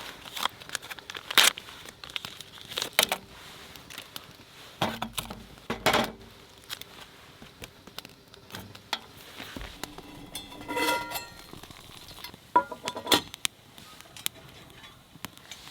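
Scattered clicks, knocks and light clinks with some crinkling, as of small gear and packaging being handled. About eleven seconds in comes a short ringing clink.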